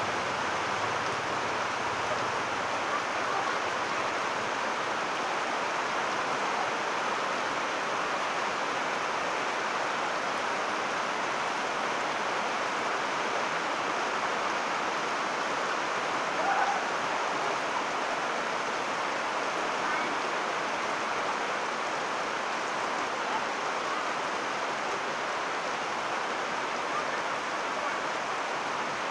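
Heavy rain falling steadily on shallow, standing floodwater. Short, louder sound a little past halfway.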